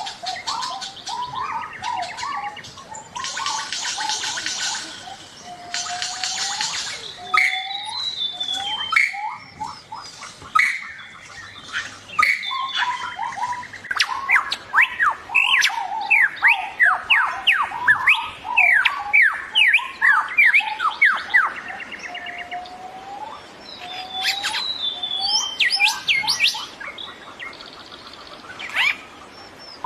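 Great argus (ruai) calls: repeated rising whistled notes, coming in a fast run in the middle, mixed with other forest birds. Loud buzzing blocks of sound come and go in the first seven seconds.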